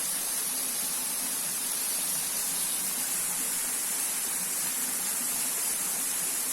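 Waterfall: a steady rush of falling water with a strong high hiss, unchanging throughout.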